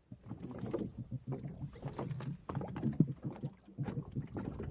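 Knocks and clatter aboard a small fishing boat, the loudest about three seconds in.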